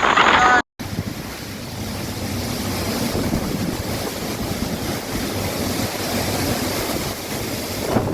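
Strong hurricane wind blowing over the microphone, a steady rushing noise that starts after an abrupt cut about a second in.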